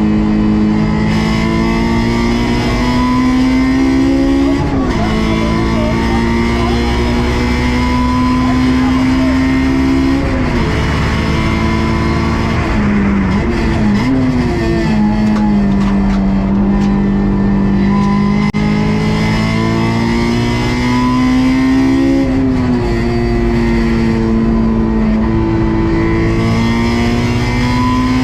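Honda S2000 (AP2) stock four-cylinder engine pulling at full throttle, its pitch climbing steadily, then dropping sharply at quick upshifts about five seconds in and again near the end. In the middle it falls away under braking with a few quick throttle blips on the downshifts before climbing again.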